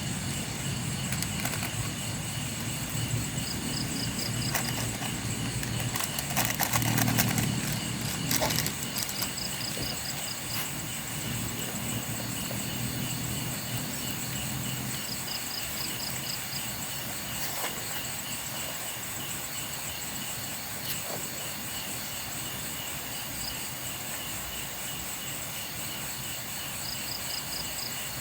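Night insects, crickets, chirping in a steady chorus, with short trilled bursts every few seconds. There is rustling and handling noise over the first half, and a few sharp knocks or clicks about six to nine seconds in.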